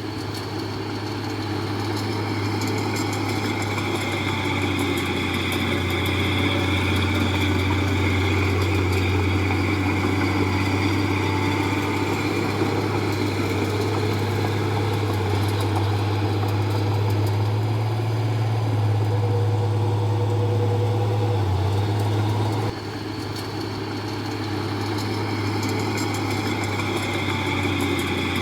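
Heavy diesel engine of earthmoving machinery running steadily with a strong low hum. It drops in loudness suddenly about three quarters of the way through, then builds back up.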